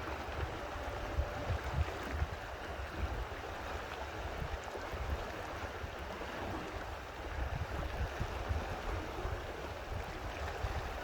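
Steady rushing noise of water, with wind buffeting the microphone.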